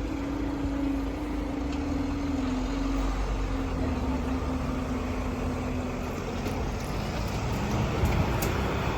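Road traffic moving over the level crossing, a low rumble of engines and tyres, with one vehicle's engine hum sinking slightly in pitch and fading out about two-thirds of the way through.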